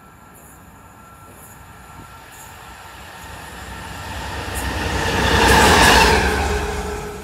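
Diesel locomotive passing through at speed: its engine and wheel noise build steadily as it approaches, are loudest about six seconds in as it goes by, then drop away quickly.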